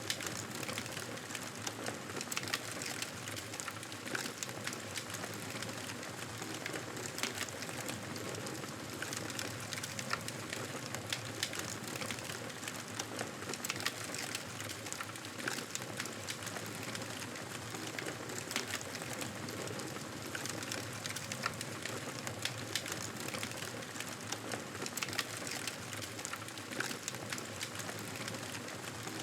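Wood fire crackling, with frequent sharp pops and snaps over a steady hiss.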